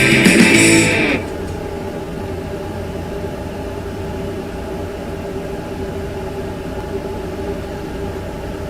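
A rock song with guitar cuts off about a second in, leaving a steady mechanical hum with a low rumble and a constant drone tone.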